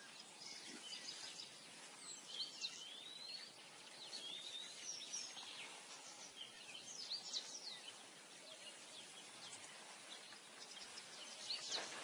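Faint outdoor ambience with scattered bird chirps and short whistled calls, a few bunches of high notes a couple of seconds apart.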